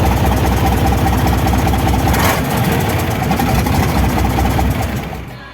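Isuzu 12PC1 marine diesel engine running steadily with a low, even pulse. There is a brief hiss about two seconds in, and the sound falls away near the end.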